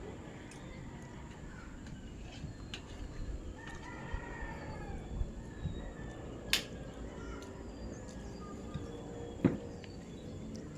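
A rooster crowing once, starting about four seconds in, with a few sharp clicks around it.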